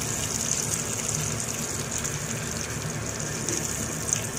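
Pork sizzling in hot oil in a small frying pan: a steady frying hiss, with a light click from the metal tongs near the end.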